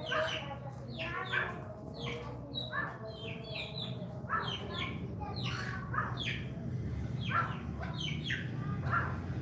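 Birds chirping and calling in quick, short falling notes, several a second, over a low steady hum.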